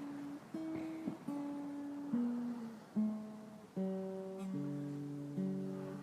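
Acoustic guitar music: slow, single plucked notes that ring on, turning to fuller chords about halfway through.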